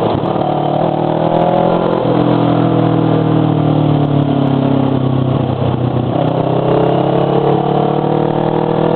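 Motorcycle engine with a loud muffler, ridden under way: its note falls for a few seconds after a brief break about two seconds in, then climbs again as it accelerates through the second half.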